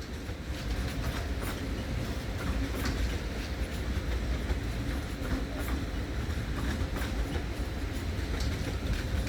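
ICE 4 high-speed train rolling into the station: a steady low rumble with scattered clicks from the wheels over rail joints and points, and a faint steady hum.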